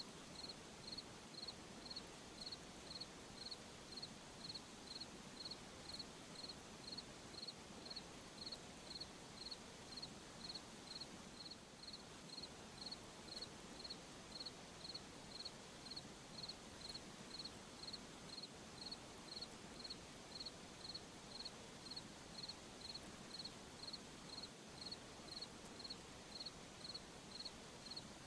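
A cricket chirping in a steady, even rhythm, about three short high chirps every two seconds, over a faint hiss of night air.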